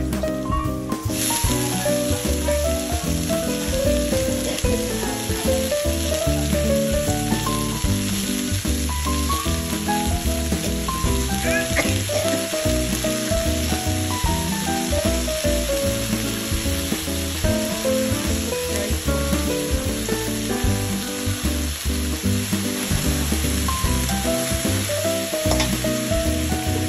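Papaya flowers, chillies and shallots sizzling in hot oil in a wok, stirred with a metal spatula; the sizzle gets much louder about a second in and then stays steady. A background melody plays under it.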